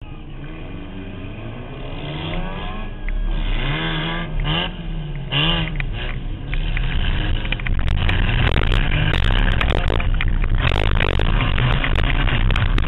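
Banger racing car engine revving up and down several times, then running hard. From about halfway through, a dense run of rattling and knocking sets in.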